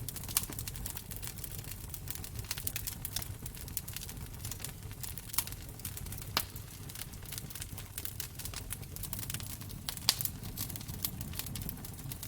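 Wood fire burning in a fireplace: irregular crackling with a few louder pops over a steady low rumble.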